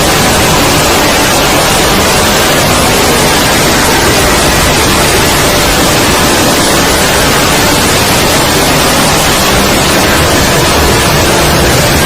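Loud, even, static-like hiss with no separate sounds in it: a cartoon soundtrack sped up so far that voices and music blur into noise.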